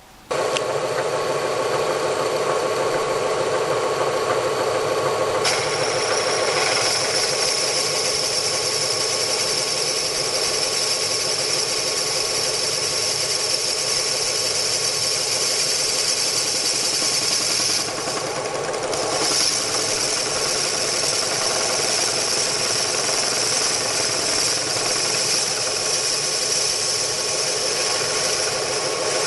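Machine tool running as a boring cutter takes a pass through an aluminium throttle-body bore. It starts abruptly with a steady machine sound. A high whine joins about five seconds in and drops away briefly around eighteen seconds.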